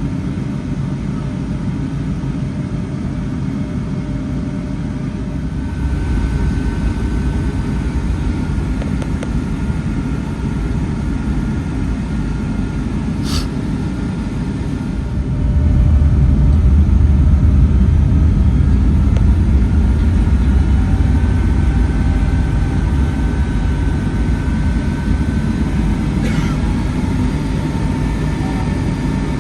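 Cabin noise of a Boeing 757-300 heard from inside, its Rolls-Royce RB211 jet engines running with a low rumble and a faint steady whine; the engine noise rises in two steps, about six seconds in and more strongly about halfway through, as thrust increases. A single sharp click near the middle.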